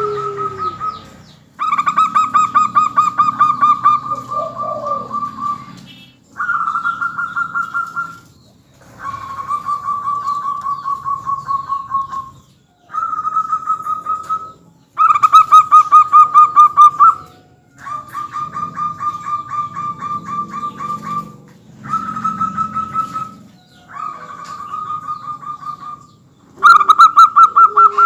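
Zebra doves (perkutut) singing. They give about nine phrases of rapid, pulsing coos, each lasting one to three seconds, with short pauses between.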